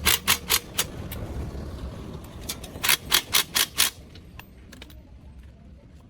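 Two quick runs of sharp knocks, about four a second, over a low rumble that fades out after about four seconds.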